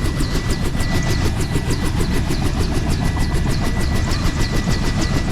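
An engine running steadily, with a fast, even pulsing beat over a low rumble and a faint steady whine.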